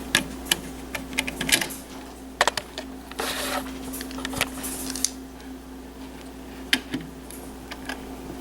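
Scattered clicks, taps and short scrapes of hands working at the old wall thermostat's plastic cover and screws, over a steady low hum.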